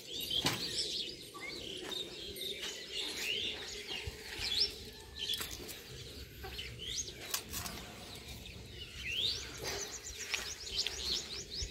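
Birds chirping: many short, rising calls one after another, with a quick trilled run near the end and a few faint clicks.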